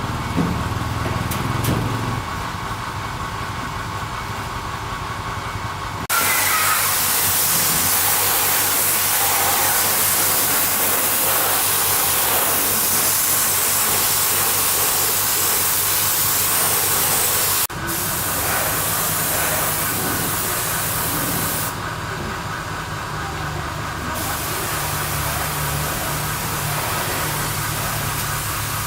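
A motor hums steadily. About six seconds in, a loud, steady hiss of a high-pressure spray starts over the hum, and the sound changes abruptly several times in the second half.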